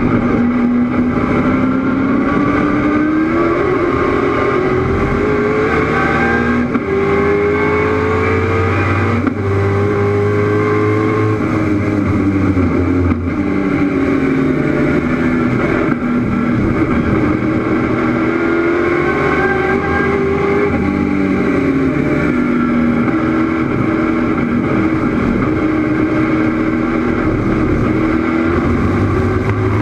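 Race car engine heard from inside the car while it is driven hard on track: the revs climb for several seconds and drop back, again and again, through gear changes and lifts.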